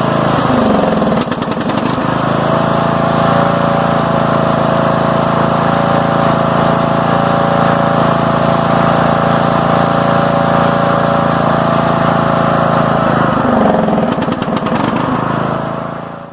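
Southern States lawn tractor's engine running steadily, its pitch dipping briefly near the start and again near the end. The sound cuts off abruptly at the very end.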